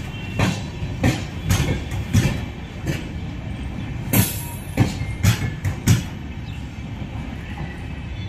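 Passenger train coaches rolling past, their wheels clacking over rail joints in sharp knocks, often in pairs, over a steady rumble. The knocks stop about six seconds in and only the rumble remains.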